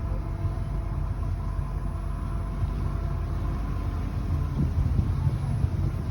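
Ferry's engine running steadily: a low rumble with a few steady hum tones above it.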